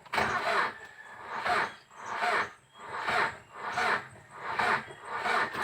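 Starter motor cranking the Mitsubishi L200's diesel engine slowly and laboriously after the glow plugs have been heated, in about eight even pulses, a little over one a second. The engine does not catch. The slow, hard cranking is the sign of a battery that has gone weak overnight, with the starter also under suspicion.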